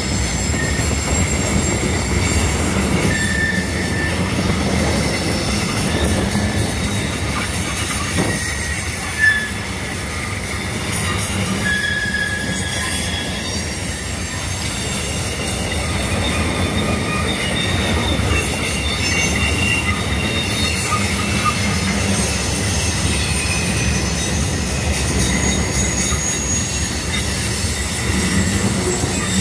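Loaded covered hopper cars of a freight train rolling past on a curve: a steady rumble of steel wheels on rail, with high flange squeal coming and going in short whistles. A single brief loud knock about nine seconds in.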